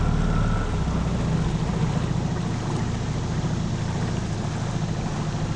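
9.8 hp Tohatsu four-stroke outboard motor running steadily, with a slight drop in level about a second in, over the wash of water and wind.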